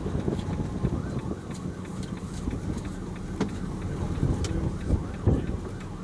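Steady low rumble of a vehicle's engine and road noise, with wind.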